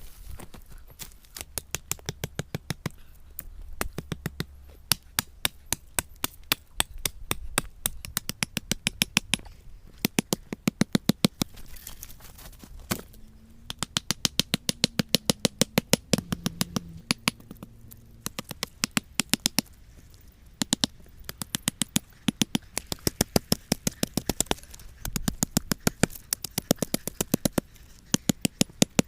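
Runs of sharp knocks, about four a second, each run lasting a few seconds with short pauses between, like repeated striking or chopping work.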